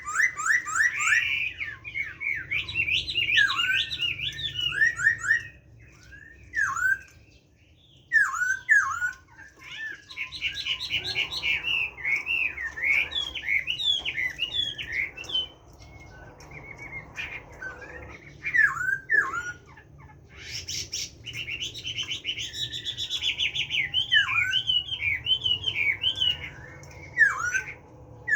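Chinese hwamei singing a wild-style song: long, varied phrases of rapid whistled notes that sweep up and down. The song breaks off twice for a few seconds.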